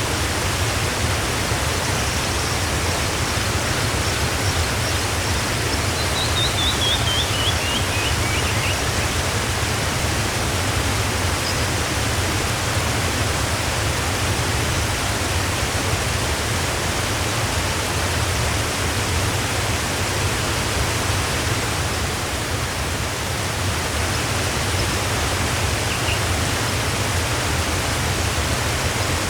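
Waterfall rushing steadily, a full even roar of falling water. A bird sings a quick run of chirps that steps down in pitch about six seconds in, with a few faint single bird notes elsewhere.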